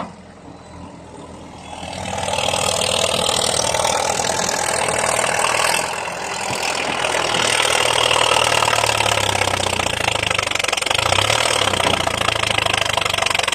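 Diesel engine of a Komatsu D50A crawler dozer, fitted with a loud straight-through exhaust pipe. It runs quietly at first, then about two seconds in rises to a loud, steady run, easing off briefly around six seconds before picking up again.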